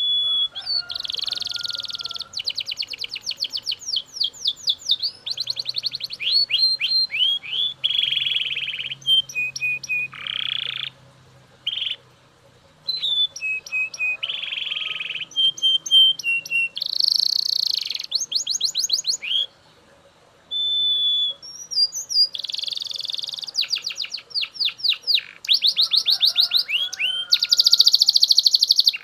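Male Belgian canary singing: phrases of rapid trills and fast repeated sweeping notes, broken by single held whistled notes and a few short pauses.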